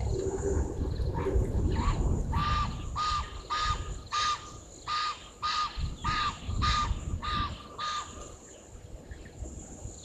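A bird giving a run of about ten short, harsh calls, about two a second, over low wind rumble on the microphone.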